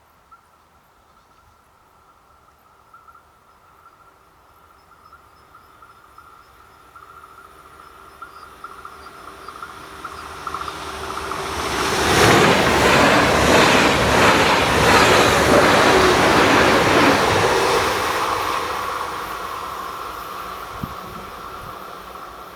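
A train passing on the line: it is heard approaching for several seconds, passes loudly for about six seconds with its wheels clattering over the rails, then fades away.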